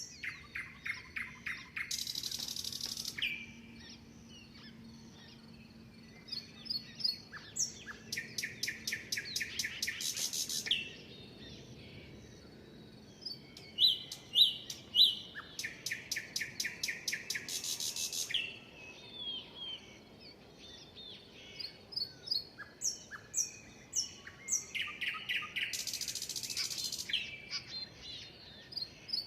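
Songbirds singing in a chorus. One bird repeats a song of a fast trill of rapid notes ending in a short buzz, four times about eight seconds apart, while other birds chirp and whistle short notes in between.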